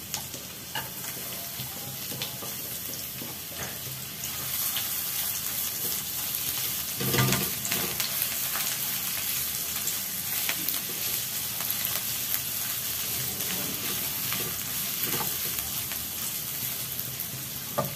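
Shallots, garlic and ginger sizzling in a little hot oil in a non-stick wok while a silicone spatula stirs and scrapes them around the pan. The sizzle gets louder about four seconds in, with a brief knock about seven seconds in.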